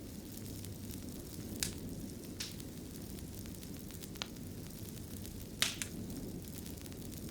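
Wood fire in a fireplace burning with a steady low rumble and fine crackling, with a few sharper pops scattered through, including a double pop near the end.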